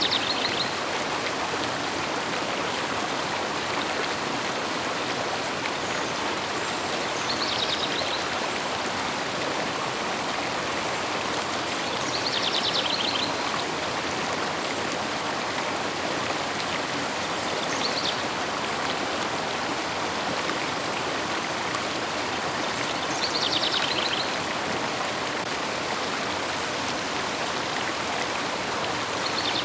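Steady rushing of a flowing river, with a songbird's short call repeating about every five seconds.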